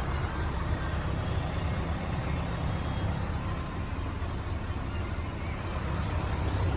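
Scania R500's diesel V8 engine running with a steady low rumble, easing slightly in the middle and picking up again near the end.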